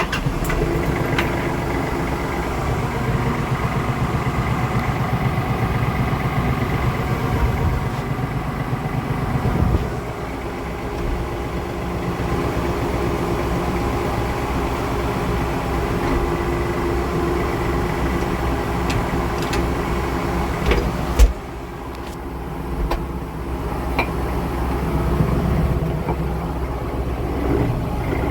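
RK37 compact tractor engine running steadily. Its note drops and eases about ten seconds in, and a single sharp knock, the loudest sound, comes about two-thirds of the way through.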